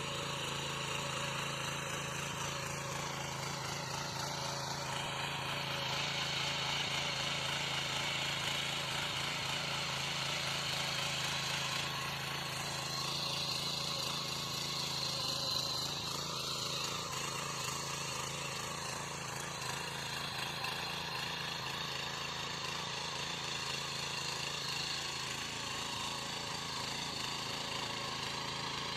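Small petrol power weeder (mini tiller) engine running steadily under load, a constant engine drone with no change in speed.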